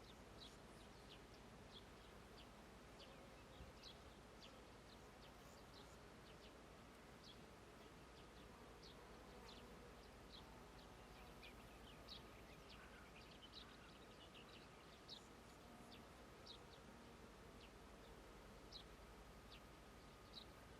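Faint meadow ambience: many short, high chirps scattered irregularly over a soft steady hum of insects.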